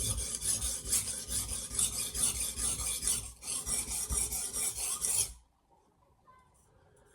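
Steel knife blade scraped back and forth across a coarse diamond sharpening plate, a rasping stroke after stroke with a short break about three seconds in, stopping about five and a half seconds in.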